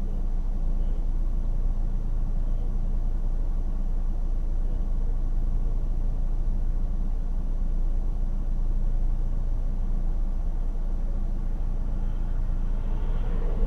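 Steady low rumble of a car running, with even engine hum and road noise.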